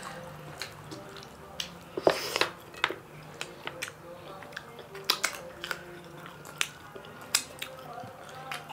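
Close-miked eating by two people using their hands: wet chewing and lip smacks on chicken wings and curry-mixed rice, heard as irregular sharp clicks a few times a second.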